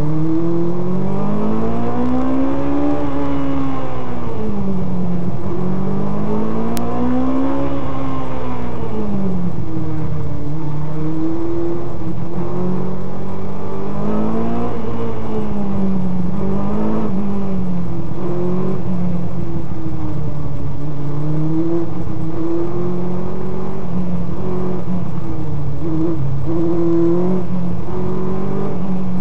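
Race car engine heard from on board, its revs climbing and falling again and again as the driver accelerates and lifts between cones. Two long swells in pitch come in the first ten seconds, then shorter, smaller ones.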